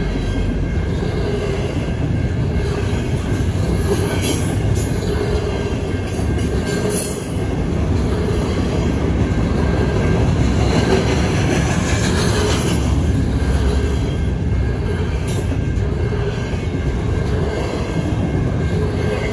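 Double-stack container well cars of a long intermodal freight train rolling past: a steady, loud rumble of steel wheels on rail, with a few brief high-pitched wheel squeals.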